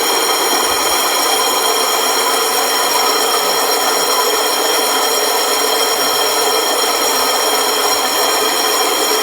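STR 701 floor grinder running steadily, a loud, even grinding noise with a high whine made of many steady tones.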